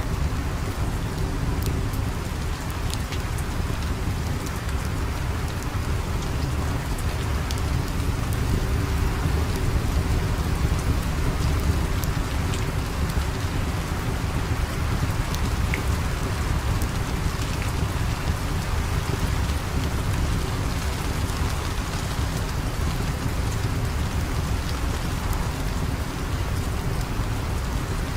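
Steady heavy rain with a deep low rumble under it and scattered sharp crackles and ticks throughout.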